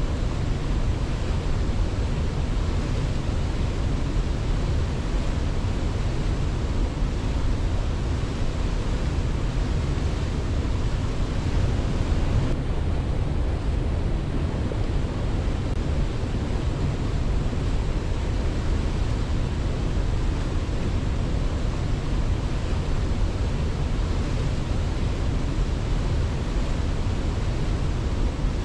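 Waterfall giving a steady, even rushing roar, heaviest in the low end.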